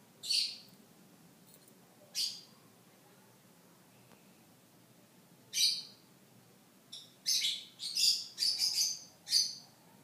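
Birds chirping: single chirps near the start, about two seconds in and just before six seconds, then a quick run of five or six chirps over the last three seconds.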